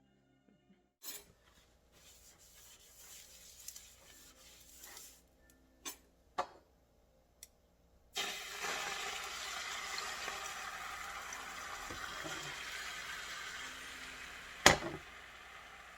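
Kitchen sounds: a few light clinks and knocks, then water running steadily from a tap for about seven seconds, with one sharp knock near the end.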